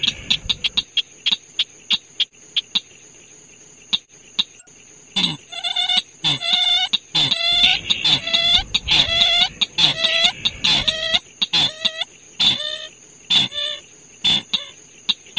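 Recorded bird calls used as a trapping lure: a run of quick clicking notes, then from about five seconds in a series of harsh downward-sliding calls repeated about twice a second, over a steady high-pitched whine.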